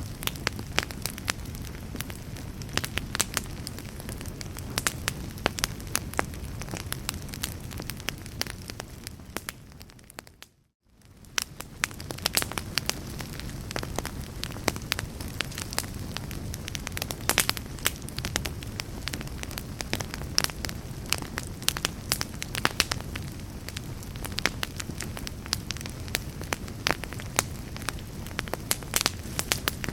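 Log fire crackling in a fireplace: frequent sharp pops and snaps over a low, steady rush of burning. About ten seconds in the sound fades out to silence for a moment, then fades back in.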